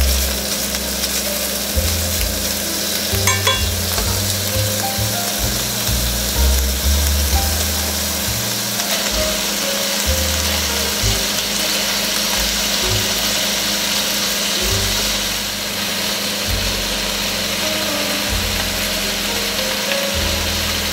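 Food sizzling steadily as it fries in a Staub enamelled cast-iron pan.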